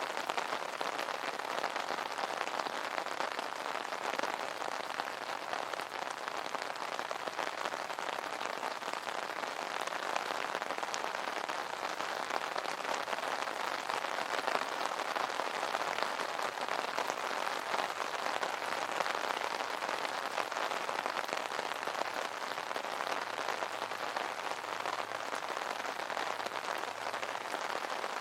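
Steady rain pattering on an umbrella canopy, a dense, even patter of many small drop impacts.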